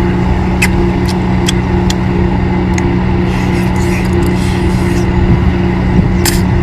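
Boat engine running steadily with an even, unchanging hum, and a few light clicks over it.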